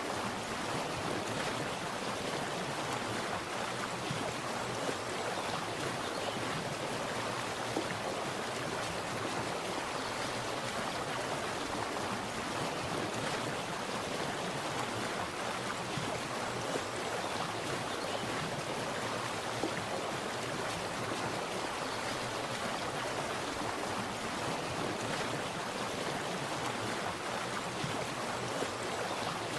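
Water splashing and running in a steady, even rush, with a few slightly louder splashes now and then.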